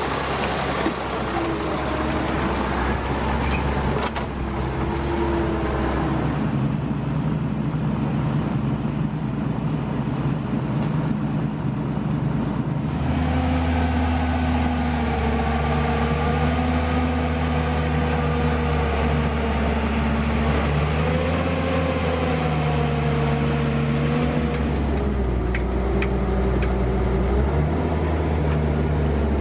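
Diesel engine of a T-150K wheeled tractor running steadily, its pitch rising and falling as the revs change, with the engine note growing heavier about halfway through.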